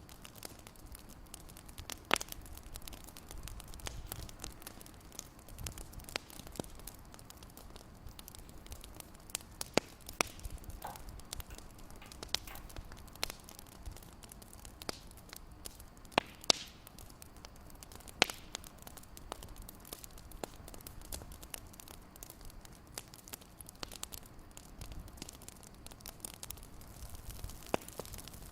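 Wood fire crackling in a fireplace: irregular sharp pops and snaps over a low steady rumble, with a few louder pops scattered through.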